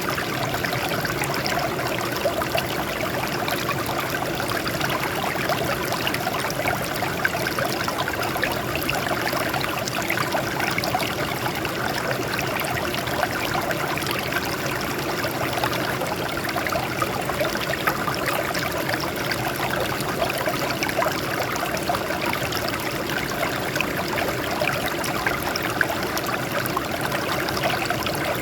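Water flowing and splashing over rocks in a steady, even rush with fine trickling detail and no let-up.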